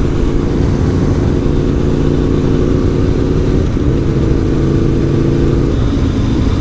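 Aprilia Tuono V4 1100 Factory's V4 engine running at a steady cruise under the rider, with wind and road noise, its note shifting slightly a little over halfway through.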